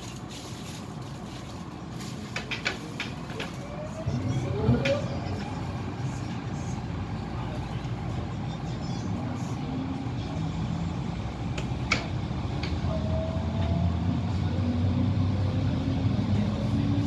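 MTR Tung Chung Line A-Train (Adtranz-CAF electric multiple unit) pulling away, heard from inside the car. A few clicks come about two seconds in. From about four seconds the traction motors start with a rising whine, and the running noise grows louder as the train gathers speed.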